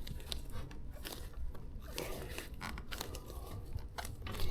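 Scuffing, crunching and small clicks of hands working a rubber bicycle tire and tube on the wheel rim.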